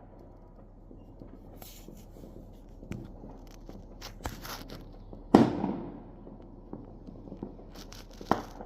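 Fireworks and firecrackers going off at a distance: scattered crackles and pops, one loud bang with a short echoing tail about five seconds in, and another sharp bang near the end.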